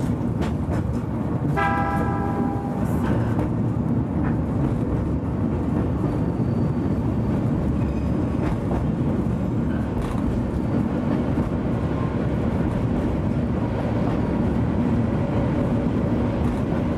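Narrow-gauge Oigawa Railway Ikawa Line train running on the Abt rack incline, a steady rumble of wheels and drive with occasional clicks. A short horn toot lasting about a second comes about a second and a half in.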